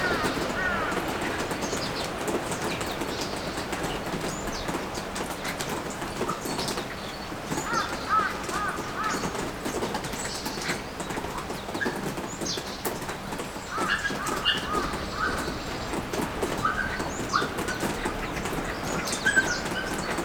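Steady rain falling, with scattered drops ticking, and birds calling over it in short chirps that come in small clusters, several times.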